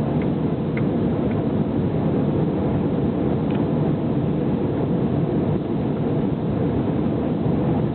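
Steady cabin noise of an Airbus A319 in flight, heard from a passenger seat: the engines and the air rushing past the fuselage make an even, deep rumble with a few faint ticks.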